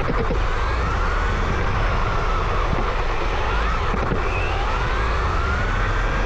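Radio-controlled Tamiya truck's electric motor whining, its pitch rising and falling repeatedly with the throttle, over a steady low rumble.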